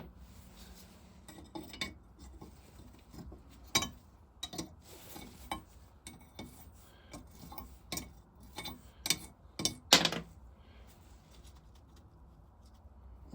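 Scattered metal clinks and knocks of tools being handled, with the loudest knocks about four seconds and ten seconds in.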